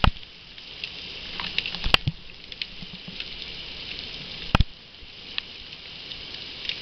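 Heavy rain pouring and pattering steadily, with scattered drip ticks and three sharp knocks close to the microphone, about two seconds apart.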